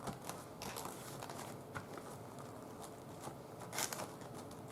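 Faint rustling and light taps of paper being folded over and pressed onto a gelli printing plate, with a louder rustle a little before 4 s.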